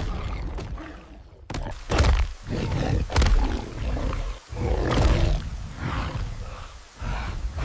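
Sound-effect monster roars, deep and rumbling, broken by several heavy crashing impacts.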